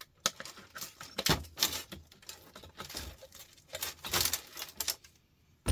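Irregular clicks, taps and light knocks of metal and plastic lamp-fitting parts being handled and pried apart by hand, with a quieter pause near the end.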